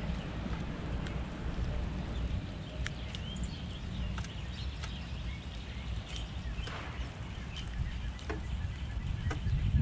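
Small birds chirping in short, scattered notes, with a few sharp clicks and a steady low outdoor rumble underneath.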